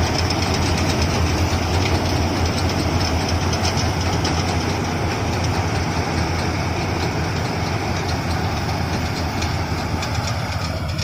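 Combine harvester running steadily while harvesting wheat, with a deep engine hum under a broad mechanical rush and a faint fast rattle.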